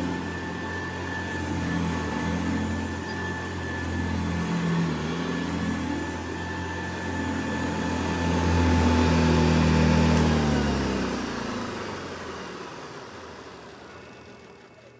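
Hoover Model 70 upright vacuum cleaner running with a steady motor whine over a low hum that swells and dips. About ten seconds in it is switched off and the motor winds down, falling in pitch and fading away.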